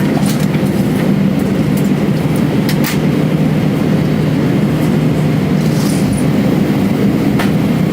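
Steady, loud jet engine drone and rumble heard inside the cabin of an Airbus A320 readying for takeoff, with a few light clicks.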